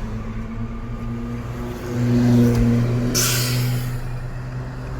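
2014 Nissan car's engine and road noise heard from inside the cabin: a steady low hum that grows louder about two seconds in, as under acceleration. A brief hiss just after three seconds.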